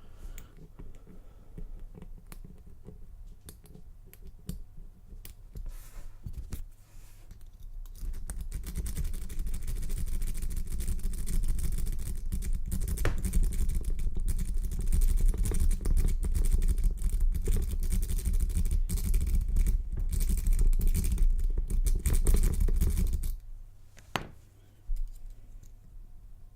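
Lock pick and tension wrench working in an Abus 83/60 padlock's Trioving SEC core: faint scattered clicks at first, then about eight seconds in a loud, dense stretch of scraping and clicking with a low rumble of the lock being handled, which stops abruptly near the end, followed by one more click.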